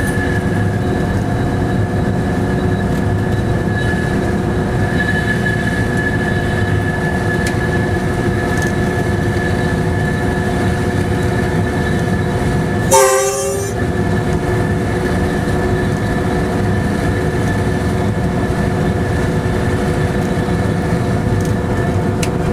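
Inside a locomotive cab while the train runs: a steady engine and running drone carrying several constant tones. Just over halfway through, a brief loud burst of about a second cuts across it.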